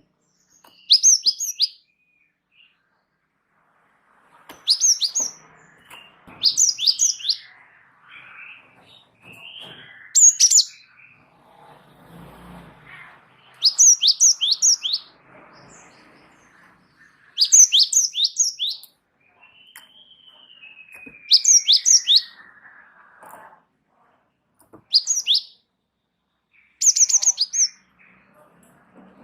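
Cinereous tit (gelatik batu) singing a repeated phrase of three to five quick, high, downward-sliding notes, every couple of seconds. About two thirds of the way in, a longer whistle slides slowly down in pitch.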